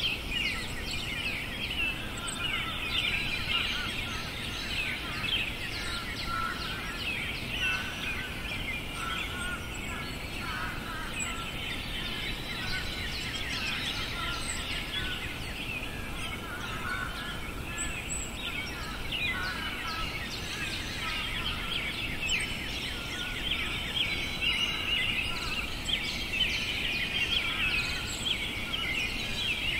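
A dense chorus of songbirds singing together: many quick, overlapping chirps and trills with no pause, over a faint outdoor background hiss.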